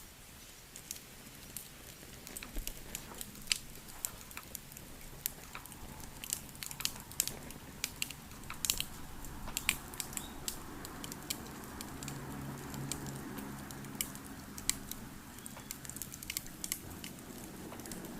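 Wood fire crackling, with irregular sharp pops and snaps over a soft steady rush. A low hum comes in around the middle and fades out near the end.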